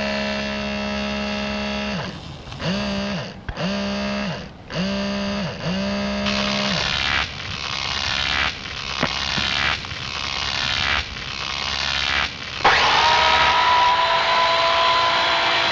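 Pinwheel whirring with a steady, buzzing, machine-like tone that stutters, cutting out and restarting about four times a little over a second apart, then turns into a run of repeated sweeping strokes; near the end it jumps to a steady, higher whine. The strange noises are taken as a sign that it is broken.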